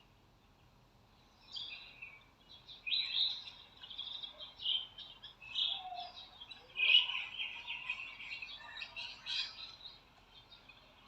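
Birds chirping: short high calls start about a second and a half in, crowd together into a dense run of overlapping chirps through the middle, and die away near the end.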